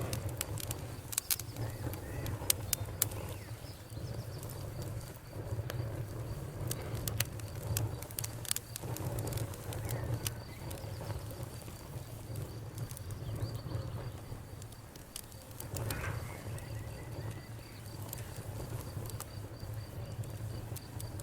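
Wood campfire crackling, with scattered sharp pops and snaps over a low, steady rumble of the flames. Behind it runs a faint, steady high trill of night insects.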